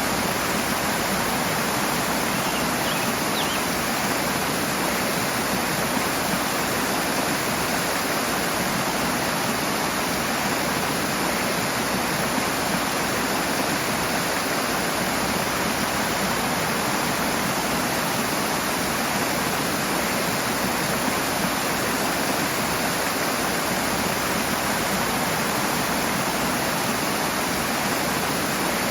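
Rushing water: a stream running fast over rocks, a steady dense rush with no breaks.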